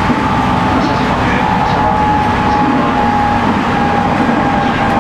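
Running sound of a 719 series 5000-subseries electric train at speed: the MT61 traction motors on 6.07 gearing whine steadily over loud wheel and rail noise.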